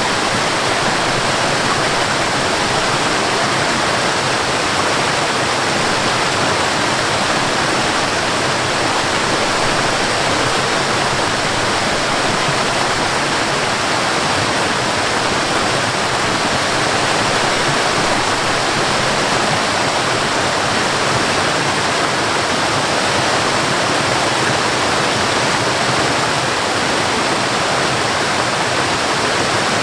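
Waterfall: water pouring and splashing in a loud, steady rush that never changes.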